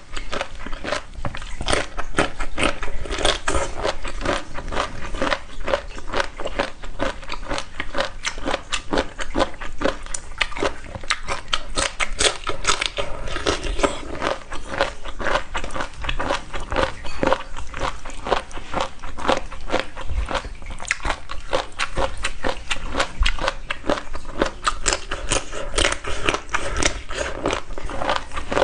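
Close-miked eating sounds: a person biting and chewing crisp food, dense rapid crunches that go on without a break.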